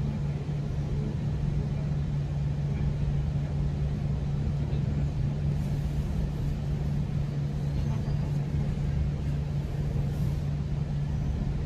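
Steady running rumble of a GO Transit commuter train in motion, heard from inside a passenger coach, with a constant low hum under it.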